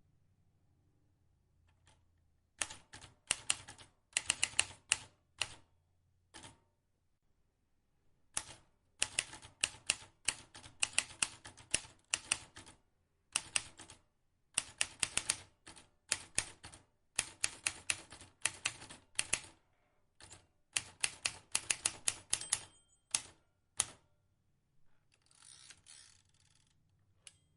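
Vintage typewriter being typed on: quick runs of sharp key strikes, a short burst, a pause of about two seconds, then a long fast stretch of typing. Near the end comes a softer noisy swish of about two seconds.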